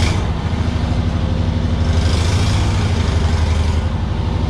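A vehicle's engine running steadily at low revs, with a strong low hum.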